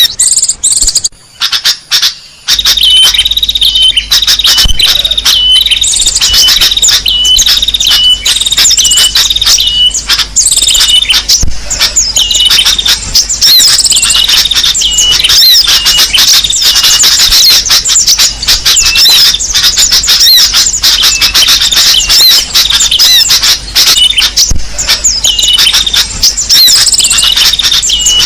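A bird-lure recording of small songbirds calling loudly and densely: many overlapping high chirps and twitters, over a short call repeated about once a second. The sound is choppy with brief gaps in the first couple of seconds, then runs unbroken.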